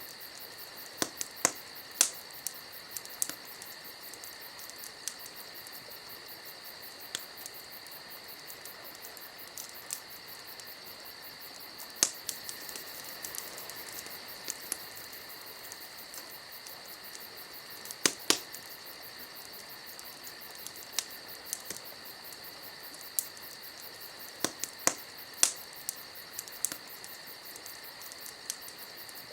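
Wood campfire crackling: irregular sharp pops, several louder ones in small clusters, over a steady high, thin tone.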